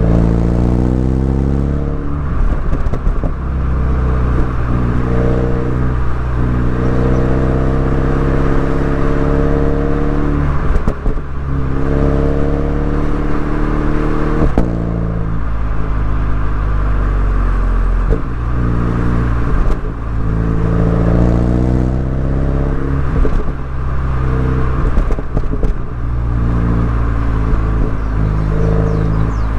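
Mini Cooper S engine and exhaust under repeated acceleration: the engine note climbs, breaks off and falls as the driver shifts or lifts, then climbs again, several times over.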